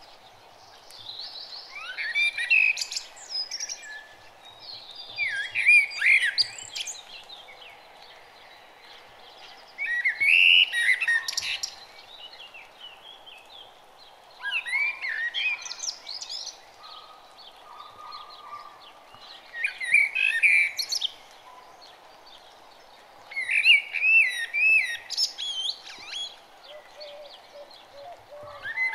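Birds singing: short twittering song phrases repeating every three to four seconds over a faint steady background hiss.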